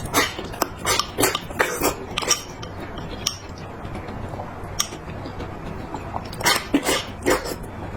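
Eating utensils clinking and scraping against a bowl in quick clusters of sharp clicks, a run in the first couple of seconds and another near the end.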